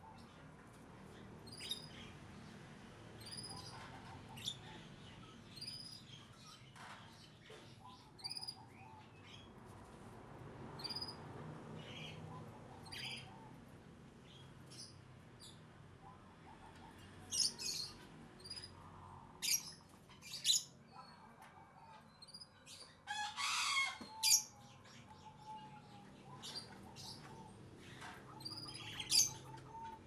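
Caged plaintive cuckoo fluttering and rustling as it moves about its cage and pecks at its food, with the loudest bursts in the second half. Short high chirps repeat every second or two throughout.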